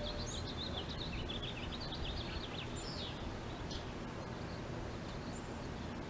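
Small birds chirping in a quick run of short, high notes over a steady low outdoor rumble; the chirping dies away about four seconds in.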